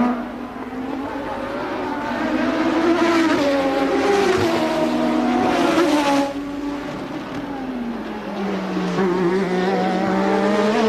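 1988 Formula One car's engine at racing revs. The pitch climbs and holds, the sound drops off suddenly about six seconds in, the pitch sinks over the next couple of seconds, then it rises again near the end.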